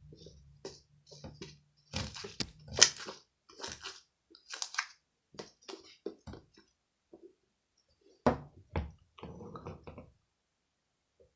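A series of irregular clicks, taps and knocks, like objects being handled at close range, loudest about three seconds in and again about eight seconds in.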